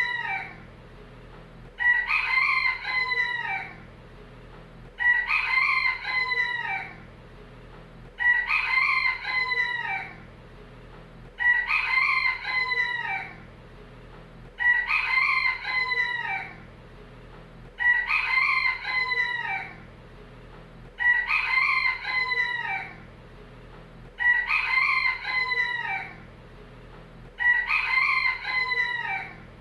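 Rooster crowing, one cock-a-doodle-doo after another about every three seconds. Each crow is alike and lasts under two seconds, dropping in pitch at its end.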